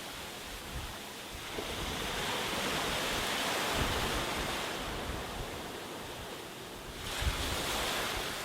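Sea waves breaking on a beach, the surf swelling about a second and a half in, easing off, then surging again near the end. A low rumble of wind on the microphone sits underneath.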